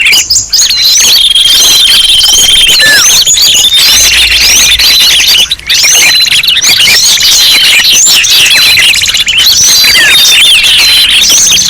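A dense, loud chorus of many small songbirds chirping and twittering at once: a mixed bird-lure call track of quick overlapping up-and-down whistles, with a steady high whistle held through parts of it.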